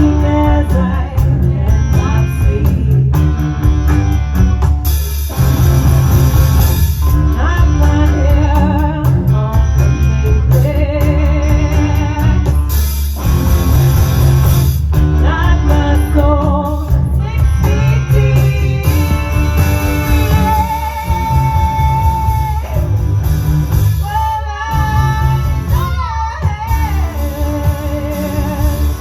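Live rock band playing: electric guitar, bass and drums, with a melody line that wavers in pitch riding over a steady beat.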